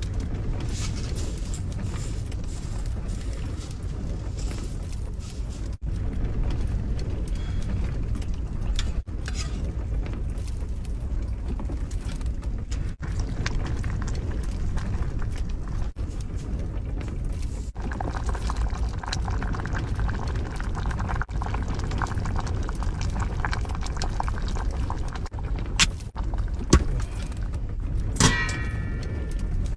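Gale-force wind buffeting the small camper car, a steady low rumble, while a pot of noodle soup simmers on the stove. A few sharp metal clinks near the end, one ringing briefly.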